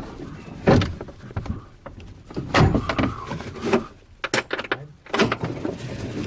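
A handful of separate sharp knocks and clunks with rattling between them, like equipment being handled.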